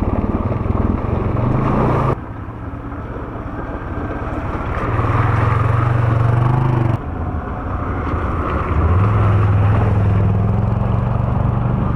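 ATV engine running under way on a trail, its pitch rising as it pulls harder about five seconds in and again after eight seconds. The sound jumps abruptly twice, about two seconds in and near the middle, where the footage is cut.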